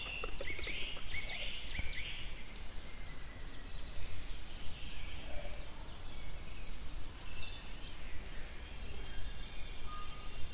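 Steady low background hum with scattered faint high chirps, bird calls from outside, in a cluster early on and again in the last few seconds, plus a few light clicks.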